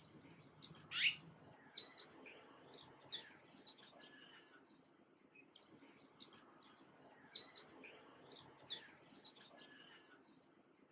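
Small birds chirping: scattered short, high chirps, one louder upward-sweeping chirp about a second in and the rest faint.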